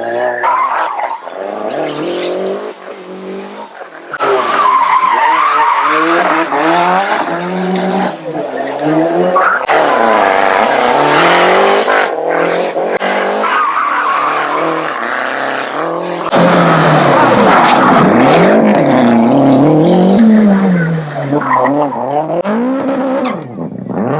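Rally cars driven flat out on a stage, engines revving hard and falling away through gear changes and lifts for corners, with tyres squealing. Several separate passes follow one another, changing abruptly about four seconds in and again past the middle.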